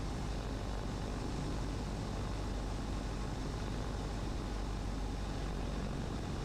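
Steady drone of a Cessna 150's Continental O-200 four-cylinder engine and propeller at approach power, mixed with airflow noise, heard from inside the cockpit.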